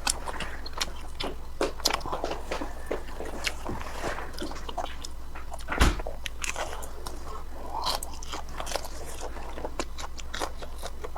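A person chewing crispy fried chicken cutlet close to the microphone, with many short crisp crunches and mouth sounds. A louder dull bump comes about six seconds in.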